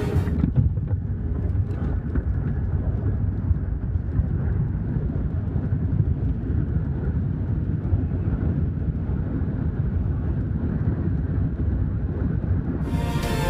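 Jet airliner cabin noise heard from inside the passenger cabin: a steady, deep rumble.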